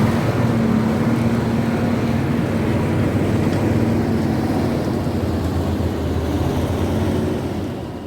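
Diesel engine of a cement lorry running loudly and steadily, fading out near the end.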